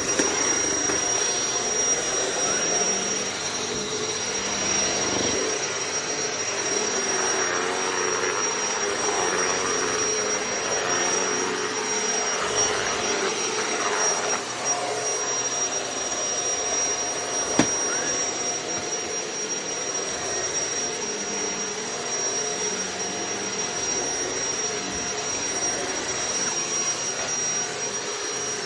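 Shark vacuum cleaner running steadily, its motor giving a thin high whine over the rush of air. One sharp click about two-thirds of the way through.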